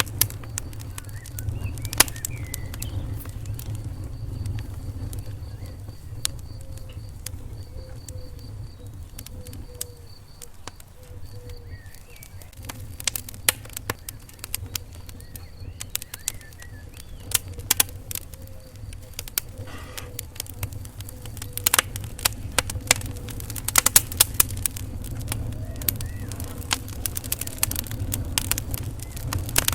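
Wood fire in a fireplace crackling, with irregular sharp pops and snaps over a steady low rumble of the flames. The pops come thickest about three quarters of the way through.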